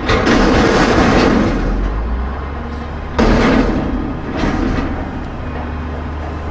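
Toy farm truck driving off, heard as a truck engine sound with a steady low hum and a noisy surge at the start and another about three seconds in.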